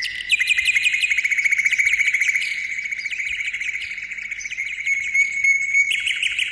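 Bird trilling: a high, rapid trill of many quick repeated notes, kept up for several seconds.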